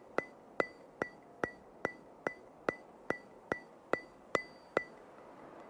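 Sharp, evenly spaced ticks, each with a brief high ring, a little over two a second, stopping about five seconds in.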